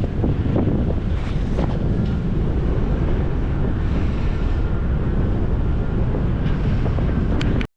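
Strong wind buffeting the microphone on a ferry's open deck, a loud steady rumble that cuts off suddenly near the end.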